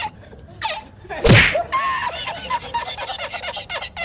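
A person laughing in short, choppy bursts, with one sudden loud burst about a second in.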